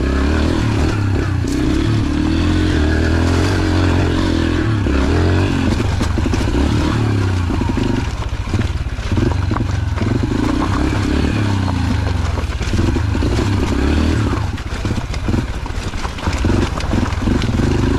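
Small dirt bike engine running continuously on a rough trail, its revs rising and falling with the throttle, with frequent knocks and rattles from the bike jolting over rocks.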